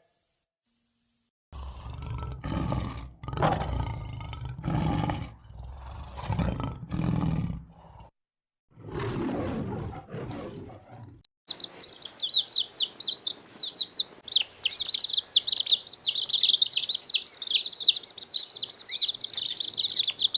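Small birds chirping rapidly and continuously through the second half, after a first half of short, rough animal calls about once a second.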